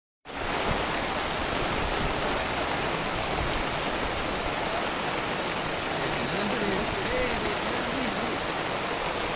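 Heavy rain falling steadily on floodwater, a constant, even hiss.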